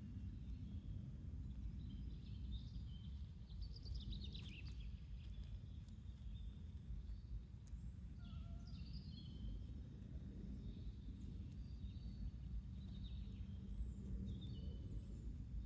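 Outdoor garden ambience: scattered short bird chirps and twitters, a busier flurry about four seconds in, around the middle and near the end, over a steady low background rumble.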